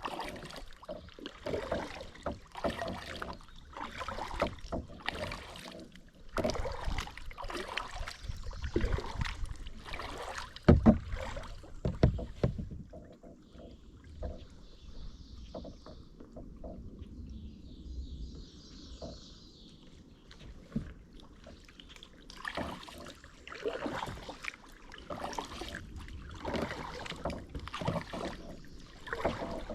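Kayak paddle strokes dipping and splashing in the water, a stroke about every second, with two louder thumps a little before halfway through.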